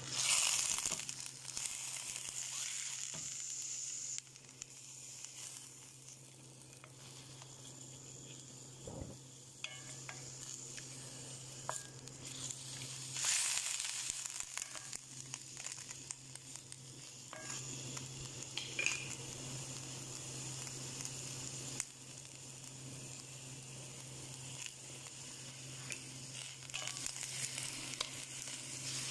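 Raw chicken pieces sizzling in a stainless-steel pan with chopped onion and garlic, the sizzle surging louder when a wooden spatula stirs and turns them: about a second in, around thirteen seconds and near nineteen seconds. A steady low hum runs underneath.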